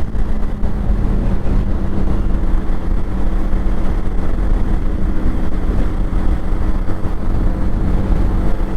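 Motorcycle engine running steadily while riding at a constant speed, with a low rush of wind on the microphone.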